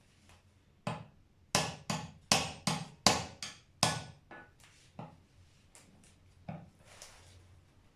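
Hammer blows on a brake booster during disassembly: about a dozen sharp knocks, each ringing briefly. A quick, loud run comes in the middle, then the blows slow and weaken toward the end.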